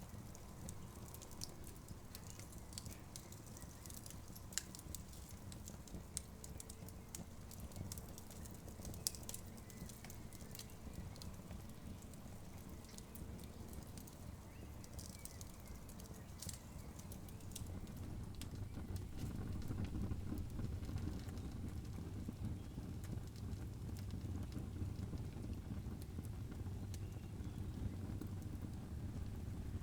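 Wood campfire crackling, with frequent sharp pops and snaps over a low steady rumble that grows louder a little past the middle.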